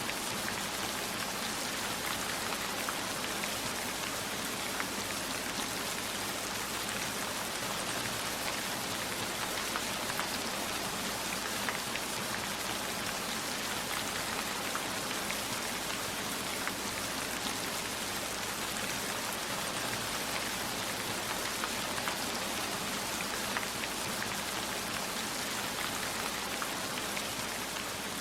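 Steady heavy rain falling, an even hiss with individual drops striking now and then.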